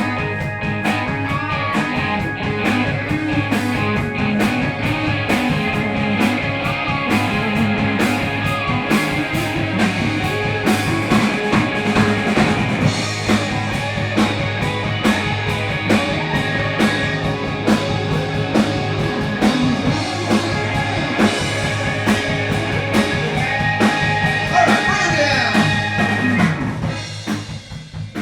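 Live band playing blues-rock with a steady drum-kit beat; the band drops suddenly to a much quieter level near the end.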